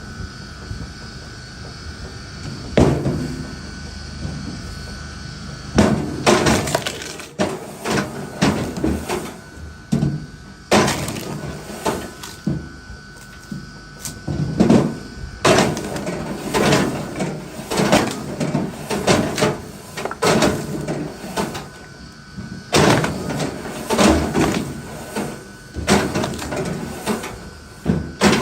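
Firewood being split and handled: repeated sharp wooden knocks and clattering pieces every second or two, over a faint steady high whine.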